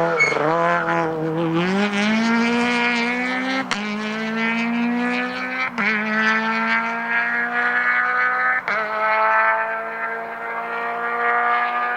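Rally car engine accelerating hard through the gears: the pitch climbs steadily, drops sharply at three upshifts a few seconds apart, and climbs again after each.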